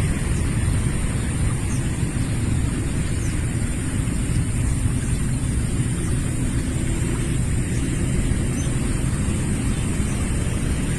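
Wind buffeting the microphone: a steady low rumbling rush with no clear pitch.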